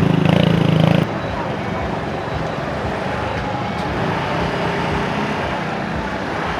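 Street traffic with motorbike and car engines. A loud engine close by cuts off abruptly about a second in, leaving a steady traffic noise.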